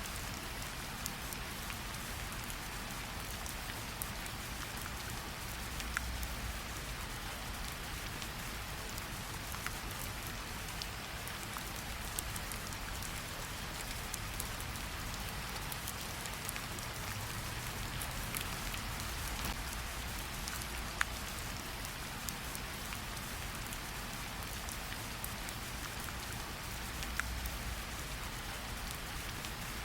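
Steady rain falling in the forest, an even hiss with single drops now and then landing sharply close by.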